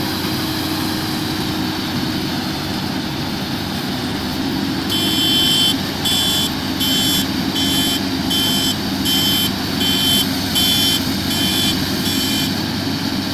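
Rice combine harvester's engine running steadily; about five seconds in, a reversing alarm starts beeping, about ten high beeps evenly spaced a little under a second apart, then stops.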